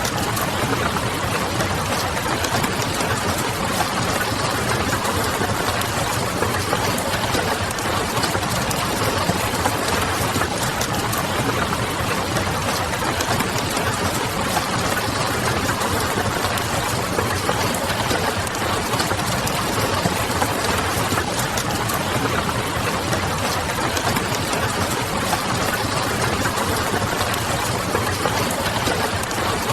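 Steady rain pattering mixed with the crackle of a wood fire: an even hiss dotted with many small pops, over a faint low steady hum.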